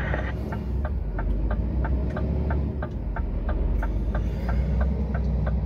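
Scania truck's diesel engine running with a steady low rumble while the stuck rig manoeuvres on an icy climb, with a light regular ticking about four times a second over it.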